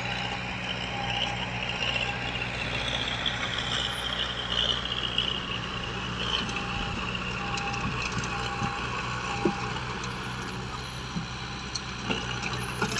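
Heavy construction machinery diesel engines running steadily, with a high whine that slowly drops in pitch in the first half. A reversing alarm beeps several times in the middle.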